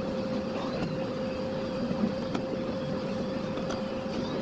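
Miele Blizzard CX1 Cat & Dog PowerLine bagless vacuum cleaner running steadily, its motor giving a constant whine over the rush of air, with a few faint clicks.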